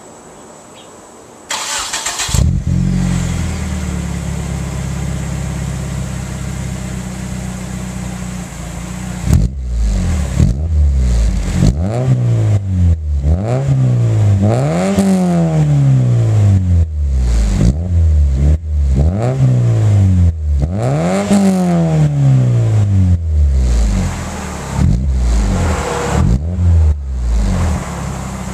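Car engine with an aftermarket OBX-R exhaust running from header to tailpipe, cranked and started about two seconds in, then idling steadily. From about nine seconds in the throttle is blipped and revved over and over, the exhaust note rising and falling, before it settles back to idle near the end; the engine is already warm.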